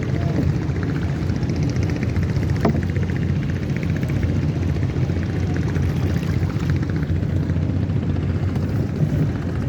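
Motorboat engine running steadily: a low drone with a fast, even chugging beat.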